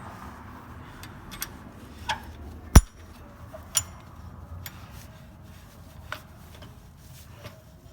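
Scattered metal clinks and knocks from tractor three-point hitch parts being handled and fitted, with one sharp, loud clank a bit under three seconds in.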